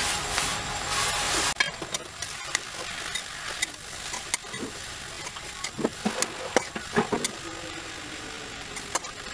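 Moringa leaves and grated coconut sizzling in a frying pan, with scattered clicks and scrapes of a steel spatula on the pan. The sizzle is louder for the first second and a half, then settles to a soft hiss.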